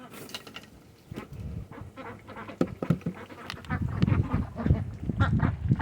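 A flock of domestic ducks quacking and working their bills, a busy run of short calls and clattering that grows louder from about a second in.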